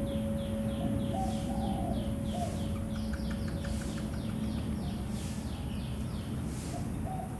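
Small birds chirping in quick runs of short, falling notes, about three a second, with a few lower calls now and then. Beneath them the lingering hum of a struck temple bell slowly fades out.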